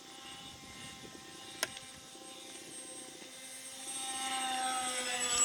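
Electric motors of a twin-motor Twinstar RC plane whining on a low, throttled-up pass, getting louder as it comes in and dropping a little in pitch as it goes by near the end. The pass is flown to hear which motor is acting up; the pilots suspect one of its two ESCs is cutting out. A single sharp click comes about a second and a half in.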